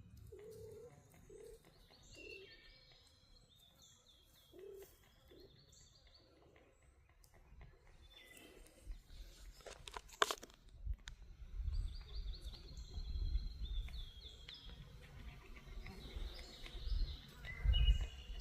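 Small birds chirping in short, repeated phrases. A low rumble on the microphone builds in the second half, and there is a sharp click about ten seconds in.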